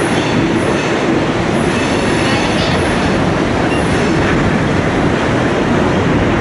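Passenger train of the Royal Gorge Route Railroad rolling along the track: a steady, loud rumble of wheels on rails, with faint high wheel squeals now and then.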